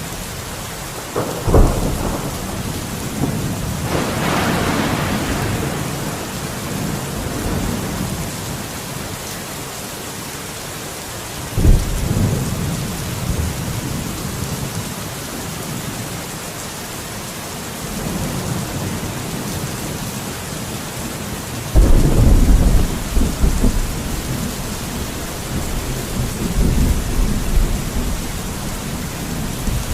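Steady heavy rain with thunder: a sharp crack about a second and a half in followed by a crackling peal, another clap near twelve seconds, and a long, loud rolling rumble from about twenty-two seconds that slowly fades.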